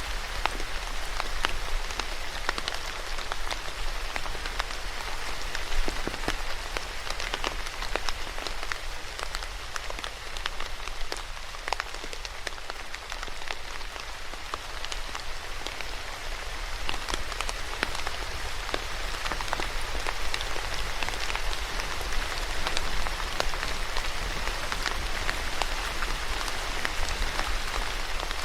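Steady rain falling on a hard surface, a dense even hiss with many separate drops pattering through it, and a faint low hum underneath.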